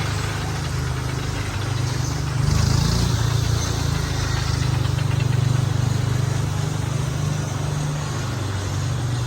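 An engine running steadily, a low even hum, with a brief swell of hiss a few seconds in.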